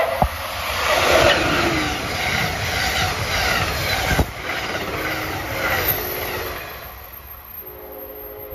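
Amtrak passenger train, an electric locomotive hauling stainless-steel coaches, passing close by at speed: a loud rush of wheels on rail and air. There is a sharp clack about four seconds in, and the sound fades over the last second or two as the train moves away.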